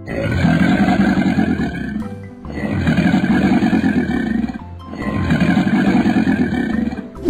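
Crocodile growl sound effect: three long rough growls, each about two seconds, over children's background music.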